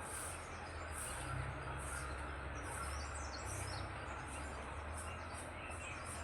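Birds chirping in short, high calls, some of them quick gliding notes, over a steady background of outdoor noise with a low hum.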